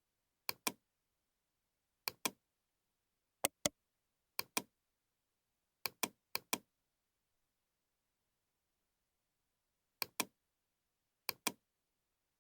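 Computer mouse clicking: eight pairs of short, sharp clicks at uneven intervals, with silence between and a pause of about three and a half seconds before the last two pairs.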